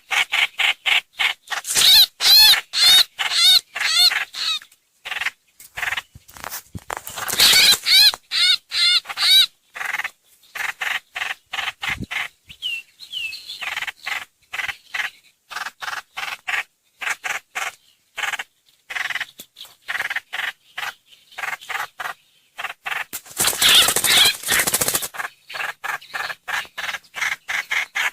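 Recorded lure calls of the bird known in Vietnam as trao trảo (hoành hoạch): a continuous run of rapid harsh chattering notes, several a second, broken by spells of quavering, wavering notes.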